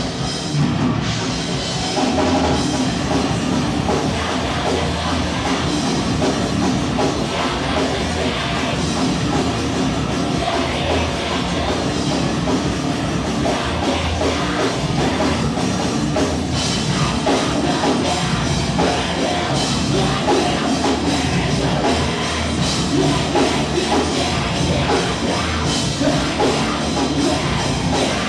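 A rock band playing live: loud, distorted heavy music with a full drum kit.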